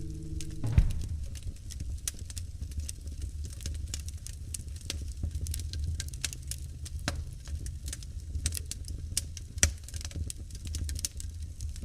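Wood fire crackling in a fireplace: irregular pops and snaps over the low, steady rumble of the burning logs, with one sharp pop about a second in.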